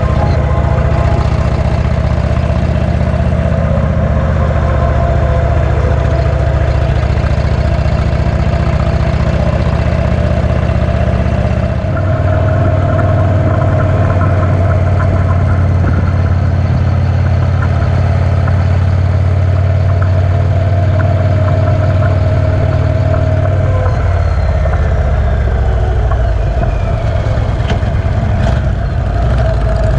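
Cruiser motorcycle's V-twin engine running steadily under way, with wind rush over it. The engine note steps up about twelve seconds in, then its pitch falls in a slow downward glide near the end.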